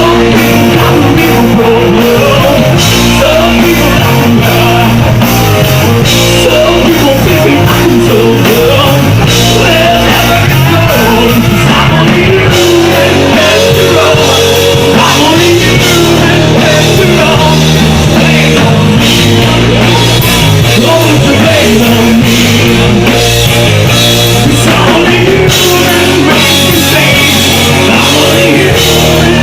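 Rock band playing loud rock music: electric guitar, drum kit and a singing voice.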